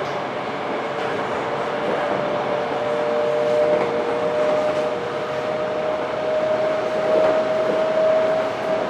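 Running noise inside a Toei 5300-series train car, with a steady whine from its Mitsubishi GTO-VVVF traction drive that creeps slowly up in pitch as the train gathers speed.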